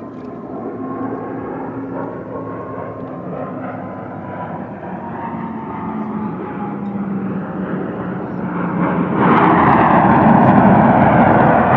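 Aircraft flying by at an air show: engine tones slowly fall in pitch, then a much louder roar comes in about nine seconds in as an aircraft passes close.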